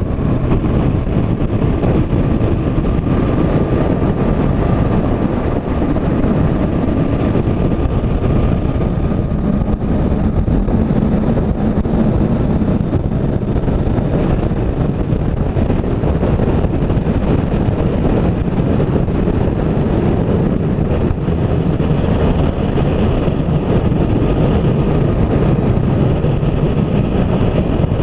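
Motorcycle cruising at steady highway speed: engine running evenly under heavy wind rush on the microphone.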